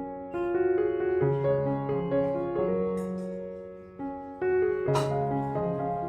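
Background piano music: a slow melody of single held notes over lower sustained notes, with a short sharp tap about five seconds in.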